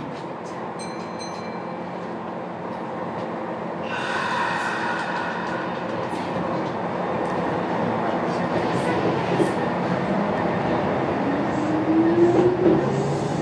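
Running noise inside a Kintetsu local commuter train pulling out of the terminus: steady wheel and rail rumble that grows louder, with a high ringing band a few seconds in and a motor whine rising in pitch near the end as the train picks up speed.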